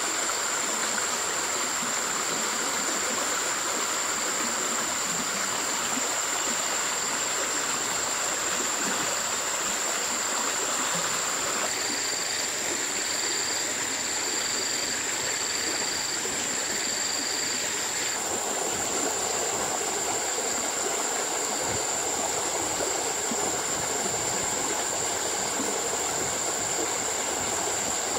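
Steady rushing of running water with a constant high-pitched whine over it. A string of short high chirps, about one a second, comes in the middle.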